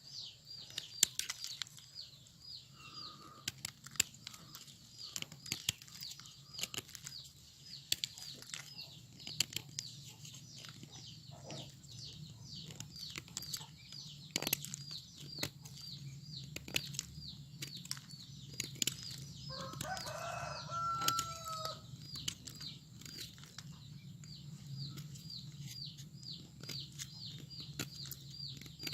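A knife paring and scraping a hardened cement mould core, making a string of irregular scratches and sharp clicks. Behind it a high chirp repeats steadily two or three times a second, and a chicken clucks briefly about twenty seconds in.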